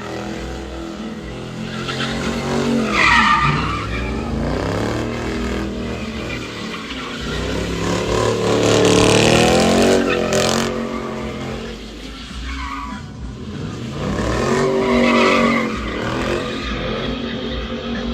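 A car spinning its tires, the tires squealing while the engine revs up and falls back again and again.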